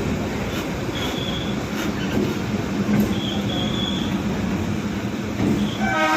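EMU local train running with a steady rumble of wheels on track and short, high wheel squeals twice. A multi-tone train horn starts sounding near the end.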